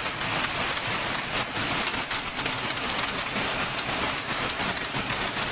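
Heavy rain pouring down, a dense steady hiss with fine crackling.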